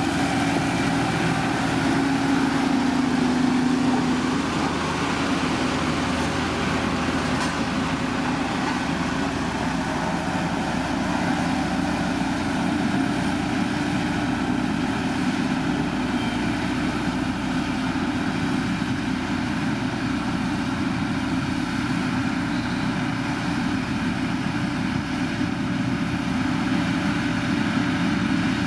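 Diesel engine of heavy road-building machinery running steadily, a little louder in the first few seconds.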